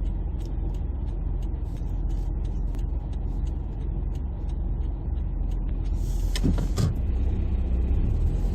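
City street traffic: a steady low rumble of passing vehicles, with a short hiss about six seconds in.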